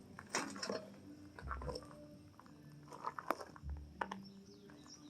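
Faint scattered clicks and taps with a few low thumps, like parts or the camera being handled.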